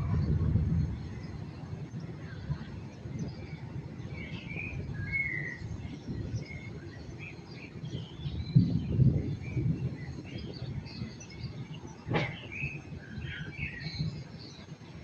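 Small songbirds chirping and twittering in scattered short calls over a low rumble that swells at the start and again around the middle, with one sharp crack about twelve seconds in.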